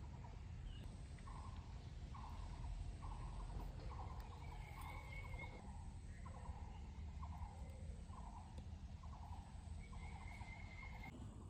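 Birds calling: a short call, each slightly falling, repeated about twice a second, with a brief higher trill twice, over a steady low background rumble.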